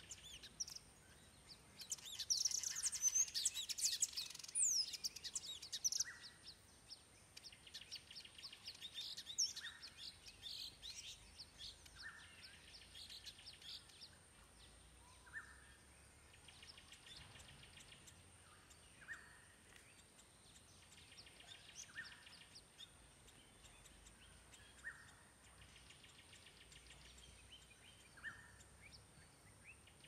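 Small birds singing: bursts of rapid high trills and chirps, loudest in the first few seconds, over a short call repeated about every three seconds.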